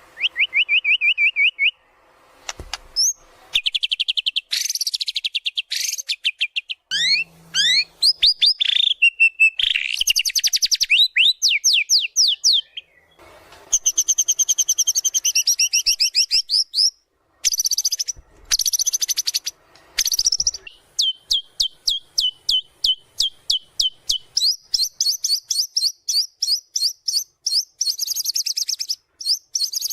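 White-rumped shama (murai batu) singing loudly, running through its repertoire of learned phrases (isian). It moves from fast trills and gliding whistles to a long string of quick, sharp repeated notes in the second half.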